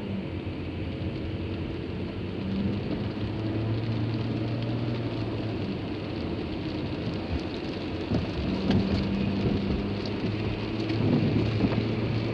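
Steady engine and road noise heard from inside a moving car, with a low hum that fades in and out.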